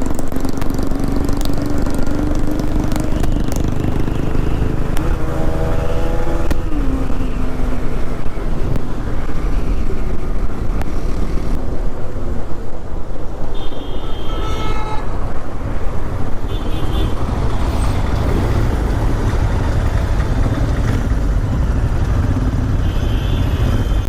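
Busy road traffic heard from a motorcycle: engines running as a steady low rumble, with several vehicle horns honking. One longer, lower horn comes about five seconds in, and shorter, higher-pitched toots follow in the second half.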